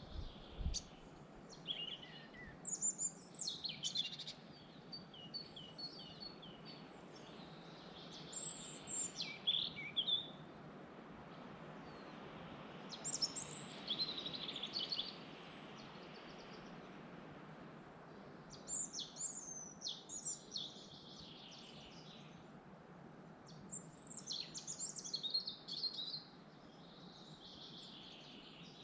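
Forest songbirds singing and chirping in short phrases that come in clusters every few seconds, over a steady background hiss.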